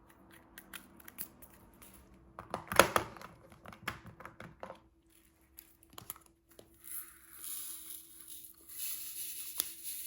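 Diamond painting handling sounds: scattered light clicks of resin drills being tapped down onto the canvas, a louder rustle about three seconds in, then a steady scratchy hiss from about seven seconds in.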